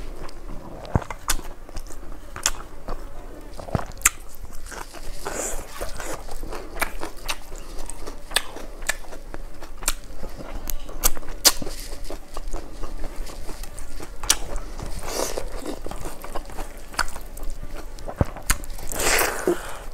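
Close-miked eating: chewing and crunching of rice and dry-fried vegetables taken by hand, with many sharp mouth clicks and three longer, louder noisy sounds, the last near the end.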